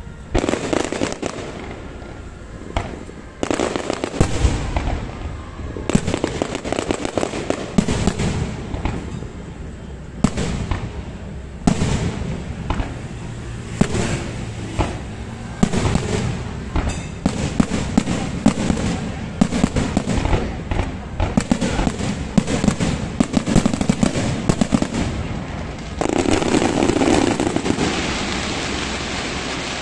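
Aerial fireworks display: shells bursting one after another in quick, irregular succession, with a dense crackling shower near the end.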